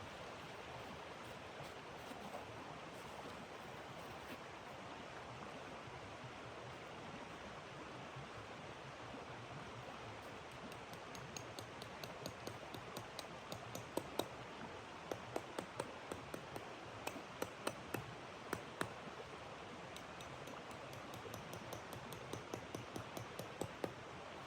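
A steady rushing hiss, with irregular sharp crackles starting about ten seconds in that come in clusters until near the end.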